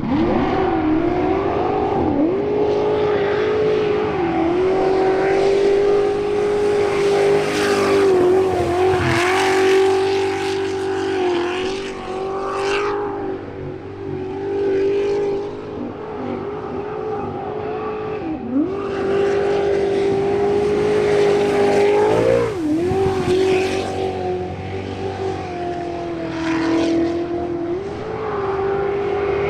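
Jet sprint boat engine running at high revs on a timed run, its pitch dipping briefly and climbing back several times as the throttle is eased and reopened through the turns.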